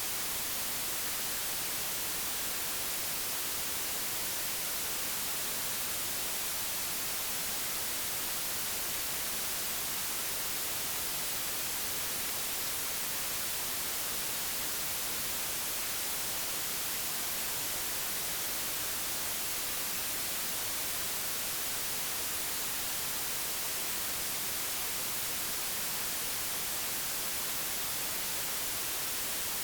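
Steady, unchanging digitally generated white noise, an even hiss weighted toward the high end, with no other sounds.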